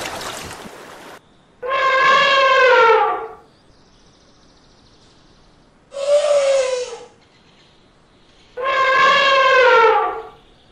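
African elephant trumpeting three times: two long blasts with a shorter one between, each a loud brassy call that drops in pitch as it ends.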